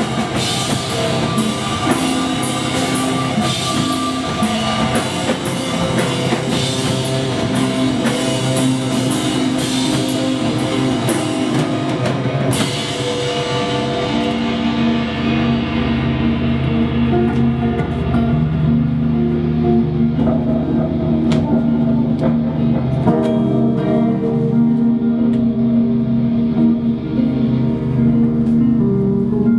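A live indie rock band plays an instrumental passage on electric guitar and drum kit. About halfway through, the drums stop on a crash that rings away, leaving held guitar chords.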